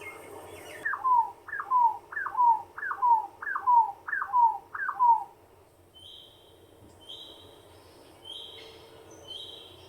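A bird calling: a run of seven loud notes, each sliding down in pitch, about two a second. These are followed by fainter, short, high, steady whistles about once a second.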